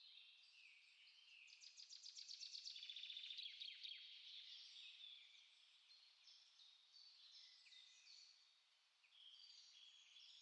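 Small songbirds chirping and singing, several voices overlapping in high, quick notes. About a second and a half in, a fast trill of rapidly repeated notes swells to be the loudest sound, then fades after about two seconds while the other chirps carry on.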